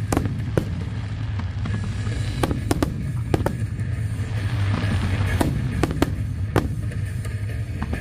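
Fireworks bursting, a rapid irregular series of sharp cracks and bangs over a continuous low rumble.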